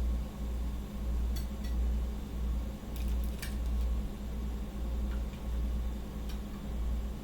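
A few light clicks and clinks of kitchen utensils and food being handled while a sandwich is put together, over a steady low hum.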